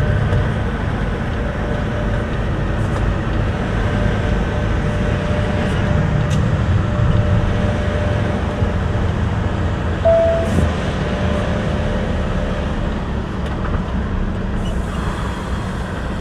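Semi truck tractor's diesel engine running steadily at low speed, a continuous low rumble with a faint steady hum above it. A short high tone sounds briefly about ten seconds in.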